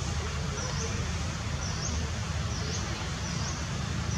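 A bird repeating a short, high chirp that dips and rises in pitch, about once a second, over a steady background hiss and a low rumble.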